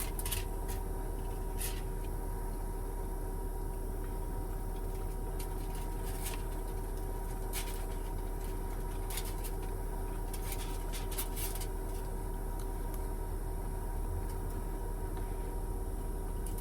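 Steady low hum and rumble inside a parked van's cabin, with a few faint, sparse clicks.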